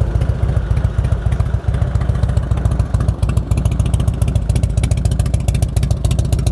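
1997 Harley-Davidson Heritage Springer's carbureted 80-inch Evolution V-twin idling steadily through fishtail mufflers, with a mellow, even beat. From about halfway through, a light, fast ticking comes through more clearly over the exhaust.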